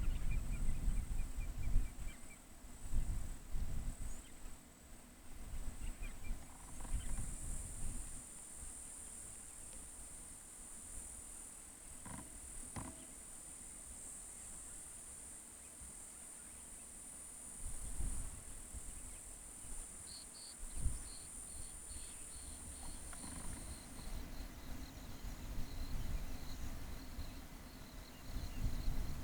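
Insects droning steadily at a high pitch, cutting off about three-quarters of the way through. Wind rumbles on the microphone now and then, and in the last third a high note repeats about twice a second.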